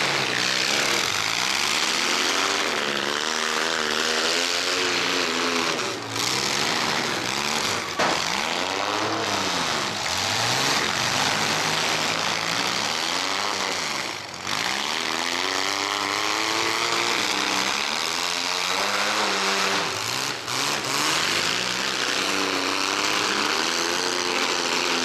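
Several mini-truck engines revving hard at once, their pitch repeatedly rising and falling as the trucks accelerate and back off, with a sharp bang about eight seconds in.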